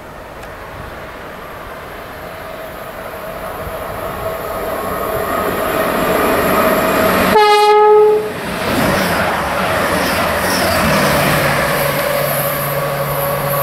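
An approaching train, its rumble growing steadily louder, gives one short single-tone horn blast about seven seconds in; the rumble then carries on with a steady low hum.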